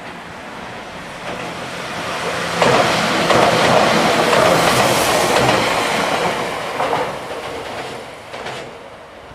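Tokyu 7700 series VVVF-inverter electric commuter train passing close by: its running noise builds, is loudest from about two and a half seconds in to about seven seconds, then fades away. A few sharp wheel clacks can be heard as it passes.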